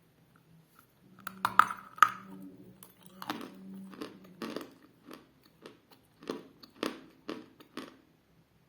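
Close-up crunching of dense, hard edible chalk: a person bites off a piece with two loud, sharp cracks about a second and a half in, then chews it with a run of short crunches about twice a second.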